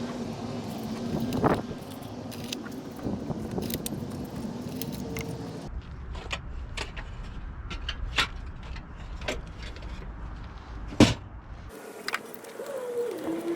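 Sockets and other small metal tools clinking and clicking as they are handled, with several sharp metal knocks, the loudest about 11 seconds in, and a steady low hum under the first half.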